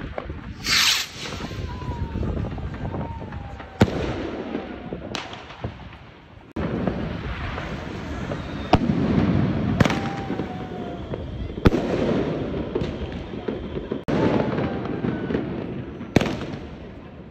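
A series of sharp bangs, about seven, going off at irregular intervals of one to three seconds over a steady background of crowd-like noise, with a short high hiss about a second in.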